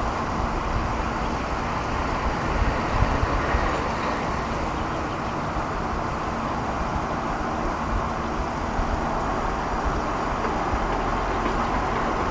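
Steady, even background roar with a low rumble underneath; no bird calls stand out.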